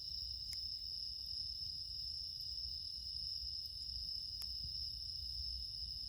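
Steady night chorus of crickets, several high even trills overlapping, with a few faint crackles from the wood fire.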